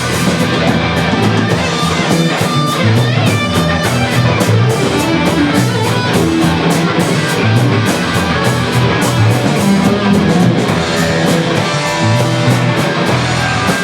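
Rock band playing: distorted electric guitar over drums and bass, with a steady beat.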